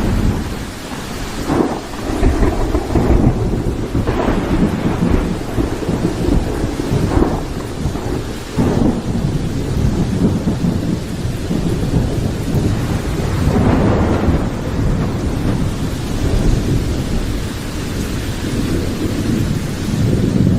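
Heavy thunder rumbling almost without pause, with repeated sharper crackles, over steady rain.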